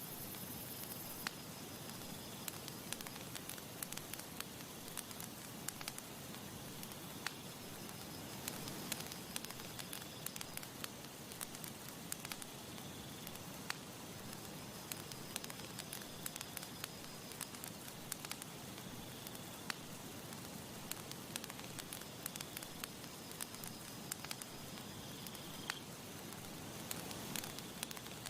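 Campfire burning: a steady soft hiss with frequent irregular crackles and pops of burning wood.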